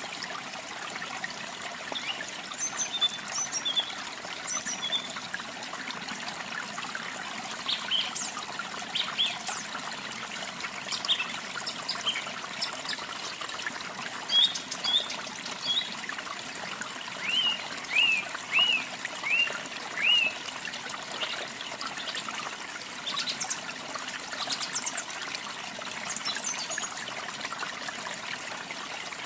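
Water trickling steadily, with small songbirds chirping in short high notes throughout, including a quick run of five arching chirps a little past the middle.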